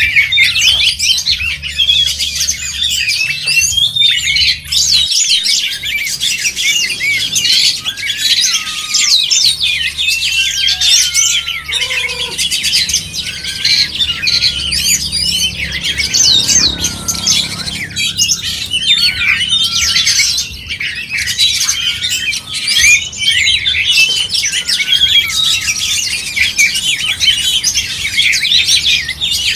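Oriental magpie-robins (kacer) singing: a dense, unbroken stream of rapid whistles, trills and chatter.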